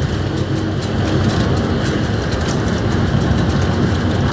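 Train locomotive running with a steady low engine drone and rail noise, with a few faint clicks.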